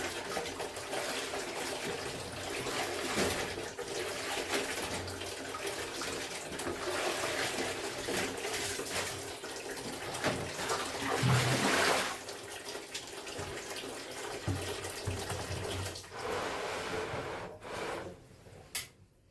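Water splashing and sloshing as clothes are washed by hand in water, with irregular louder surges; it dies away briefly near the end.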